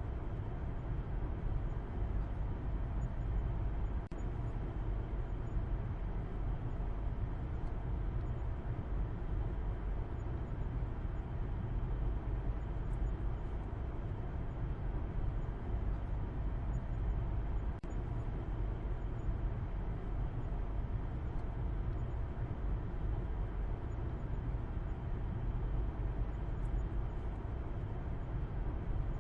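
Steady low rumble of a car driving: engine and road noise, heavy in the bass and unchanging.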